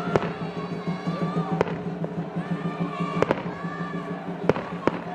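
Aerial fireworks exploding: about half a dozen sharp bangs at irregular intervals, some in quick pairs, over music in the background.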